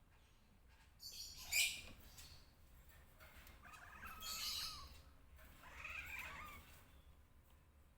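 Cats crying out during mating: three high, shrill calls, about a second in, around four seconds and around six seconds, the first the loudest.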